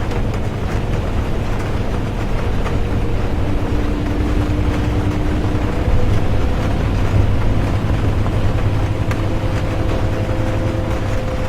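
Interior of a moving bus: a steady low engine and road rumble with faint whining tones that shift in pitch, over a hiss of rain.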